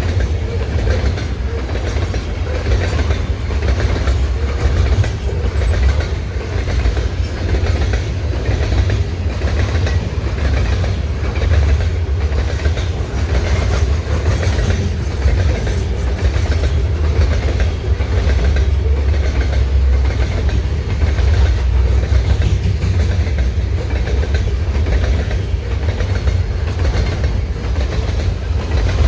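Freight train cars rolling past at speed, a deep steady rumble with wheels clicking rhythmically over the rail joints.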